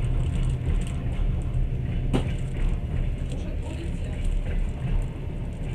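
Passenger train carriage running along the rails, heard from inside the car: a steady low rumble with light ticks and one sharp click about two seconds in.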